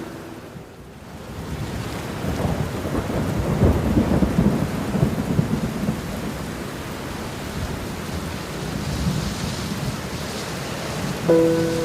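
Rolling thunder rumbling over steady rain, swelling a second or two in and loudest a few seconds in before fading back to the rain. Near the end, held music notes come in.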